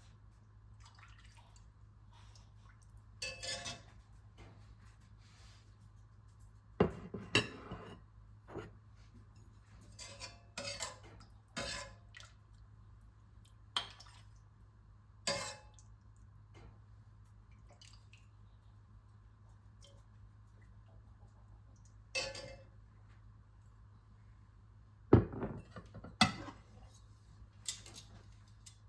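Dishes and kitchen utensils being handled, with scattered clinks and knocks coming every second or two and the sharpest ones about seven seconds in and near the end. A low steady hum runs underneath.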